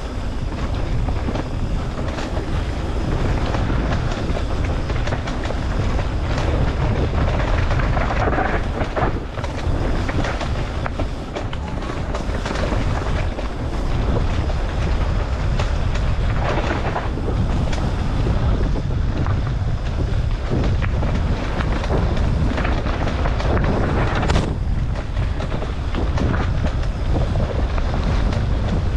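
Mountain bike riding a dirt trail, heard from a camera mounted on the bike or rider: wind buffeting the microphone, rumbling tyres and frequent rattling knocks from the bike.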